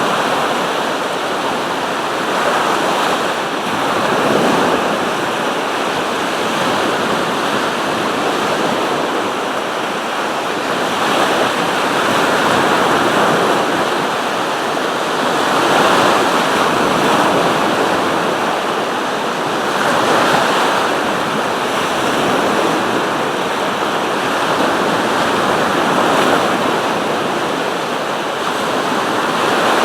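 Sea surf: waves breaking and washing on the shore in a continuous rush, swelling every few seconds.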